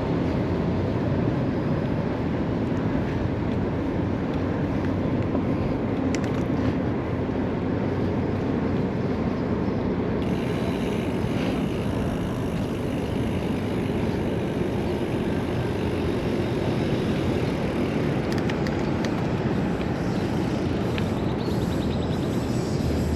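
Steady rush of wind over the camera and a gravel bike's tyres rolling along, with city traffic behind; a brighter hiss joins about ten seconds in.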